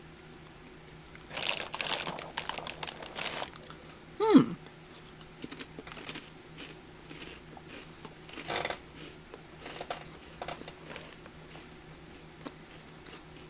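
Plastic inner bag of a cracker box crinkling as Cheez-It crackers are taken out, with a brief falling tone about four seconds in, followed by scattered crunches of the crackers being bitten and chewed.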